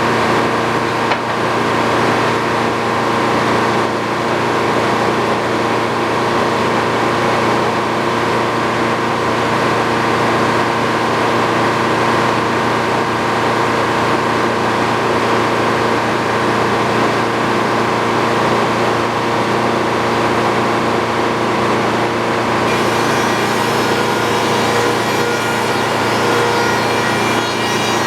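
Sawmill running steadily, its engine under load as the blade cuts through a wooden beam. About 23 seconds in, a higher whine joins the steady engine sound.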